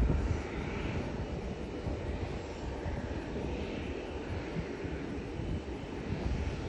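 Jet airliner engines running as the plane passes close by: a steady roar with a deep rumble.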